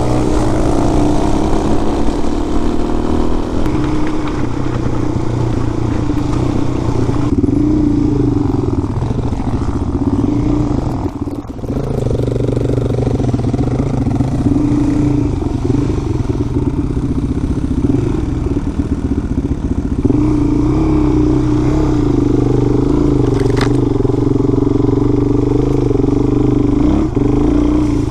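Single-cylinder dirt bike engine running while riding, the throttle opening and easing off so the pitch rises and falls, with a brief drop in loudness about eleven seconds in.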